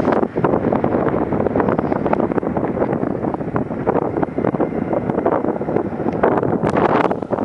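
Passenger train passing close at speed: a dense clatter of wheels on the rails, with wind buffeting the microphone. The noise jumps up sharply right at the start.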